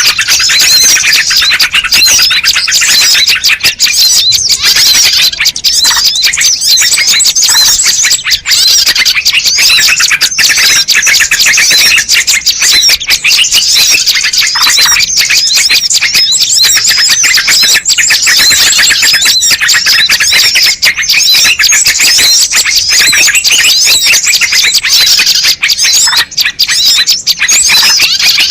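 Bird-luring recording: a dense, loud chorus of many small birds chirping and trilling rapidly and without a break, the kind of agitated flock calling played to draw wild birds in.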